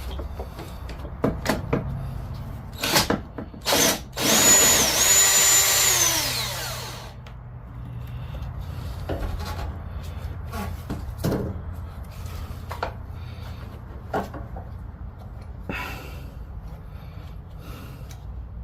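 Power drill running for about two and a half seconds, a little after four seconds in: the motor spins up, holds speed, then winds down, driving a fastener. Scattered clicks and knocks of tools and parts being handled come before and after it.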